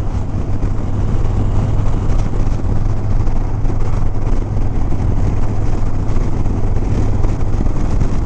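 Harley-Davidson Sport Glide's V-twin engine running steadily while riding, a constant low drone mixed with wind and road noise on the motorcycle's microphone.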